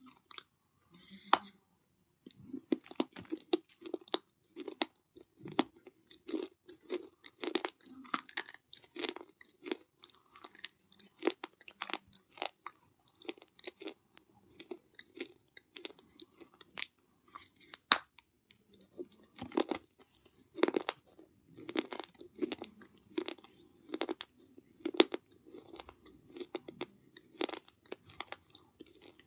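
Close-up crunching and chewing of baked clay pieces: repeated sharp crunches, roughly two a second, thinning out for a few seconds mid-way before picking up again.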